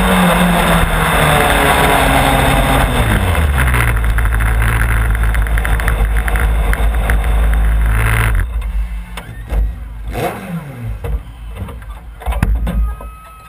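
Race car engine heard from an onboard camera, its pitch falling as the car slows, then running in a low rumble before it cuts out about eight seconds in, leaving quieter clicks and knocks.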